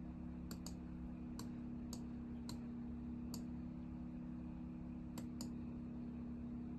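Computer mouse clicking about eight times, some clicks in quick pairs, over a steady low hum.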